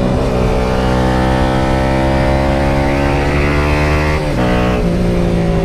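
Yamaha FZ150i motorcycle's single-cylinder engine pulling under way, its pitch climbing slowly; about four seconds in it breaks off and picks up again lower as the rider shifts up a gear.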